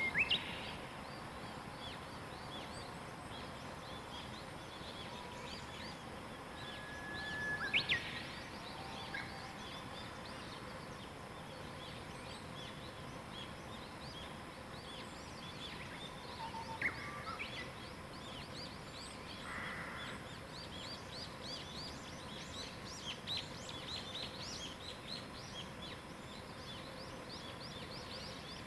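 Wild songbirds singing over a steady background hiss. A few spaced whistled phrases each hold a clear note, then leap up into a quick high flourish. A run of faint, rapid high chirps follows in the second half.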